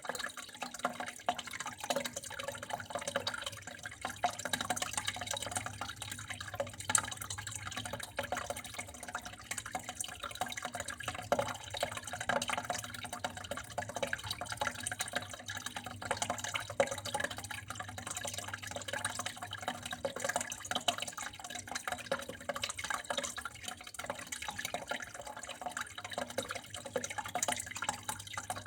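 Flowing water trickling and splashing steadily, with many small drips and splashes, over a faint steady low hum.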